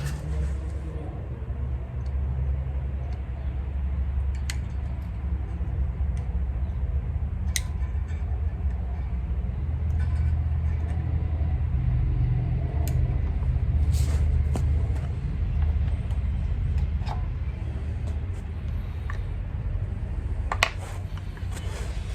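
A steady low rumble throughout, with a handful of separate sharp clicks and clinks from small hand tools and metal parts being handled.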